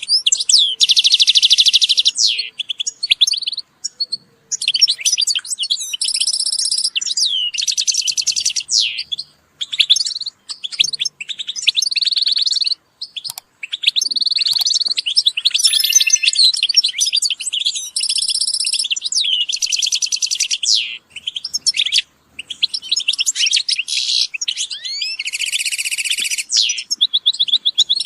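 European goldfinches singing: a near-continuous stream of fast, high twittering and trilling phrases, broken by short pauses.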